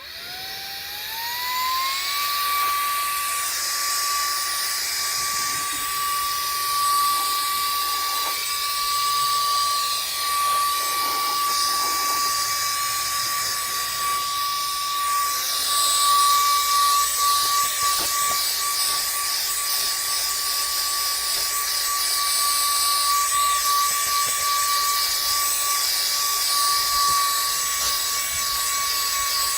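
VNOST cordless handheld vacuum run in blower mode, its small motor spinning up with a rising whine over about two seconds, then holding a steady high whine over rushing air as it blows loose pet hair around.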